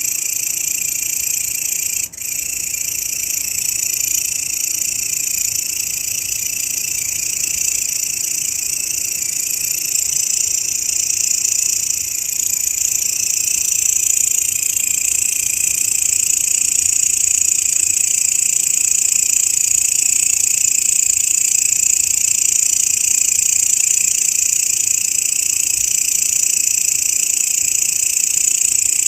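Grasshopper (belalang) stridulating: a continuous, steady high-pitched buzzing trill, with a brief break about two seconds in.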